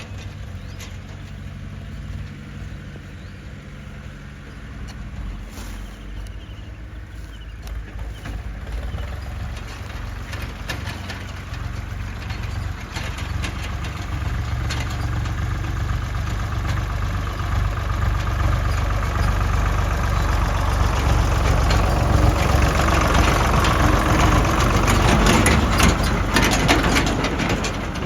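Diesel engine of heavy farm or earth-moving machinery running, growing steadily louder, with rattling clatter and knocks in the later part.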